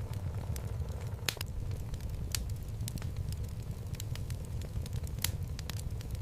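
Wood fire burning in a fireplace: a steady low rumble of the flames with irregular crackles and pops from the burning logs, two of them sharper about a second in and near the end.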